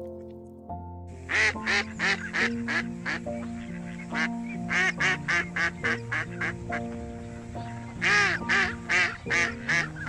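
Mallard quacking in rapid runs of short calls, about three a second, loudest near the end, over background music.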